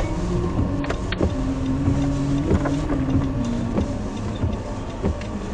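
Inside a moving car: the engine hums steadily, its pitch stepping up and down a little, over a steady hiss of heavy rain, with a few scattered ticks.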